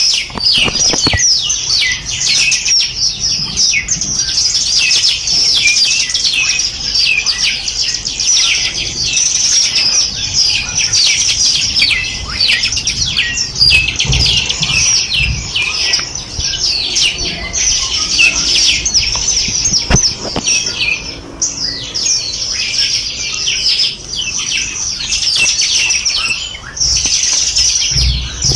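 Dense chorus of many small songbirds chirping and trilling, a continuous stream of rapid high-pitched notes overlapping one another, thinning briefly a couple of times.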